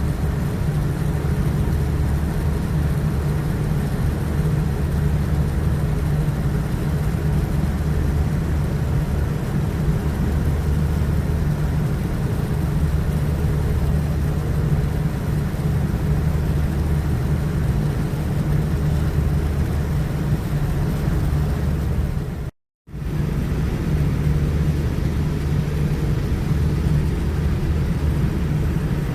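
Steady low rumble of a Boeing 787-9's Rolls-Royce Trent 1000 engines and airflow, heard from inside the passenger cabin during the departure. The sound cuts out completely for a moment near the end, then returns unchanged.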